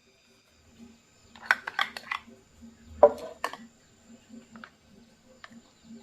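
Kitchen clatter, likely dishes and utensils being handled: a quick run of light clicks, then two louder knocks about a second later.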